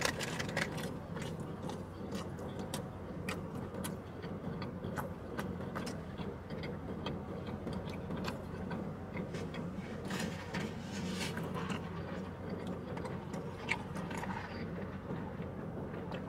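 Close-up chewing of a soft breakfast burrito: many small, irregular wet mouth clicks and smacks, over a steady low hum.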